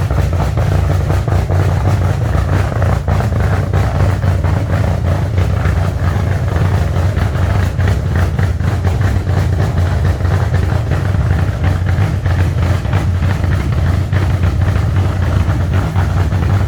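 A loud car engine idling steadily, with no revving.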